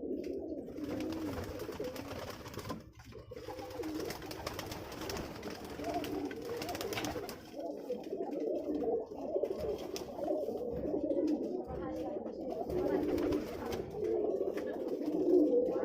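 Domestic pigeons cooing, several birds overlapping in a continuous low, warbling coo with a brief lull about three seconds in.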